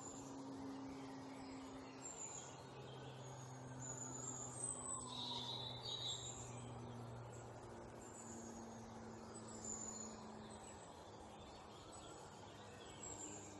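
Birds chirping and calling with short, high notes repeated throughout, a brief louder burst of calls about five seconds in, over a low steady hum.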